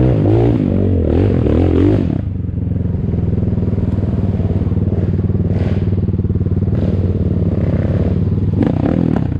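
ATAKI DR 250 enduro motorcycle's engine revving with the pitch rising and falling for about two seconds, then dropping to a steady low running note, with a brief clatter near the end.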